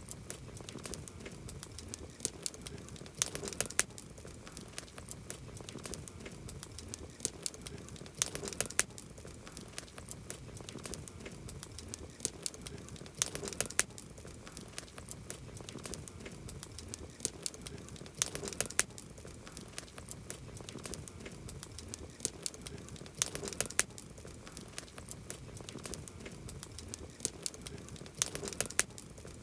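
Campfire crackling, with constant small snaps of burning wood and a flurry of louder pops about every five seconds.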